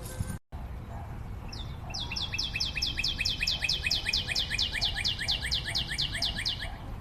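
A bird singing a long, fast trill of downward-slurred chirps, about five a second, starting about two seconds in after a brief cut to silence.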